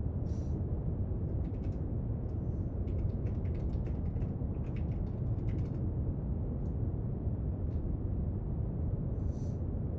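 Steady brown noise, a deep even rumble, with faint scattered clicks and scratches from someone working at a desk, coming in small clusters.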